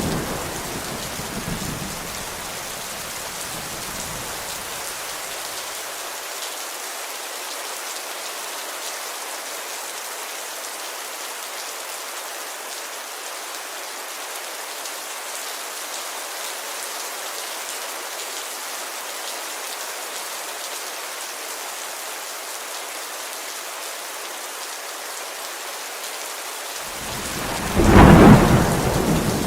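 Steady heavy rain falling on a window. A thunder rumble fades away at the start, and a loud roll of thunder swells near the end.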